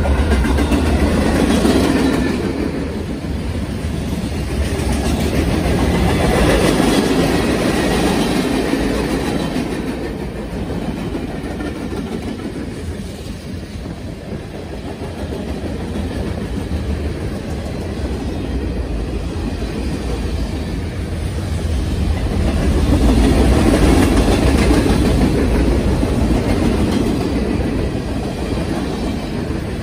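Freight train passing at close range: the trailing diesel locomotive goes by at the start, then covered hopper cars and tank cars roll past. The wheel noise on the rails rises and falls as the cars go by, over a steady low rumble.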